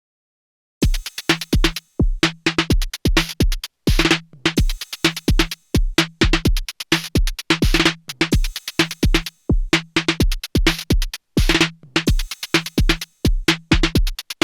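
Erica Synths Perkons HD-01 drum machine playing a 128 bpm techno pattern that starts about a second in: a deep kick on a steady beat, with hissy hat and snare-like hits and pitched drum hits between them.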